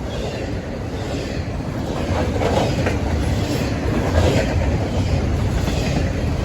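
CSX intermodal freight train passing close by at speed, a steady loud rumble with wheels clacking over the rail joints.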